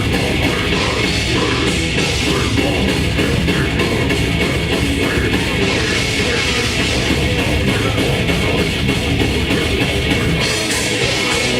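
Grindcore band playing live: heavily distorted guitars and bass over fast, dense drumming, loud throughout.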